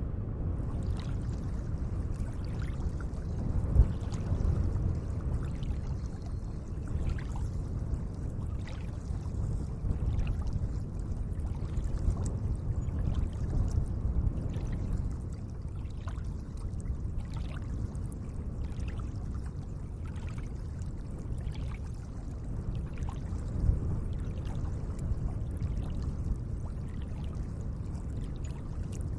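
Lake water lapping and trickling: a steady low wash of water with small splashes or drips about once a second, and a louder splash about four seconds in and again near the end.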